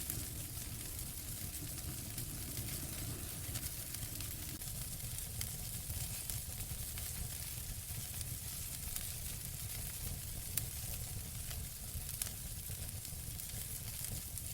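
Fireplace fire crackling steadily over a low rumble, with small scattered pops and two sharper pops about ten and twelve seconds in.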